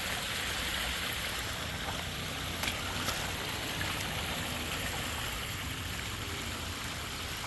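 Steady running water from a koi pond's waterfall, splashing and trickling.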